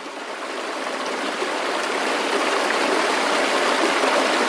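Steady rush of running water, fading in and growing louder over the first seconds.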